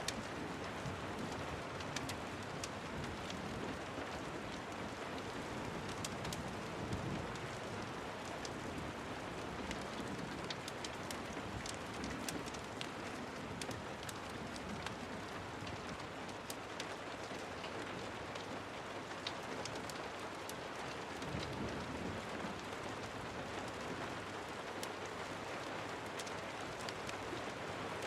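Steady rain falling, an even hiss dotted with many sharp, scattered ticks of drops.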